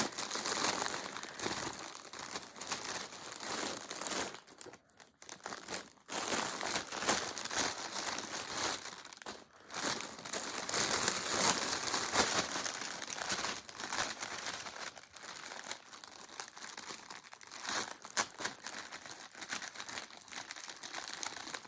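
Plastic bags crinkling and rustling as bagged yarn is handled and pushed into place. There is a short lull about five seconds in.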